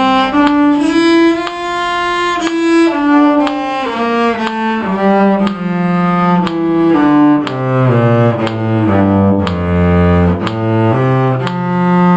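Bowed string instruments playing a two-octave F major scale note by note, several pitches sounding together. The line descends to its lowest notes about nine to ten seconds in and then turns back up.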